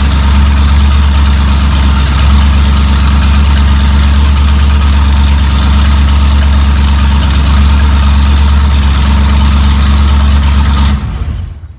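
Chevy 350 small-block V8 running steadily at idle, then cut off sharply near the end.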